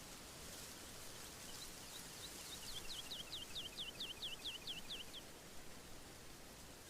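A bird sings a series of repeated, downward-slurred whistled notes, a few soft ones followed by about ten louder, quicker ones at roughly four a second, ending about two-thirds of the way through. Underneath is a faint, steady hiss of wind rustling the trees.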